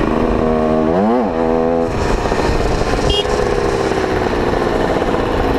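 50cc two-stroke motorbike engine running while riding. About half a second in, the engine revs up and drops back once, then runs on steadily.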